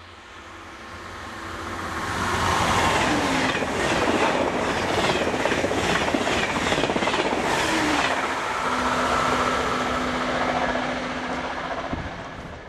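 TGV high-speed train passing at speed: the noise builds over the first two seconds, then a rapid run of wheel clacks as the bogies cross the rail joints, followed by a steady hum in the last few seconds as the rest of the trainset goes by.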